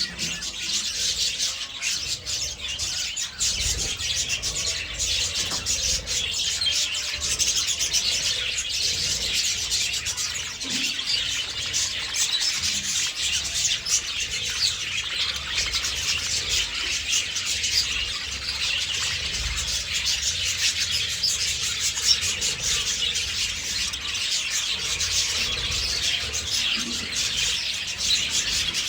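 A flock of budgies chattering and chirping continuously, many overlapping high twitters and warbles.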